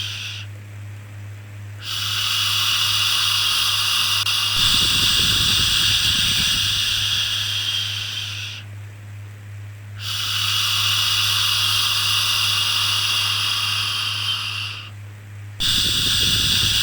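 Long shushing 'shhh' sounds for calming a baby, each held for several seconds and separated by pauses of about a second, over a steady low hum.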